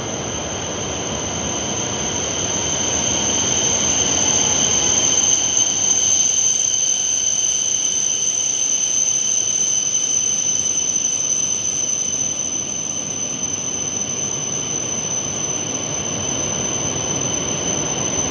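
E5 series shinkansen arriving along an enclosed station platform: a dense running rumble of the train passing close by, growing louder a few seconds in, with a steady high-pitched whine held over it the whole time.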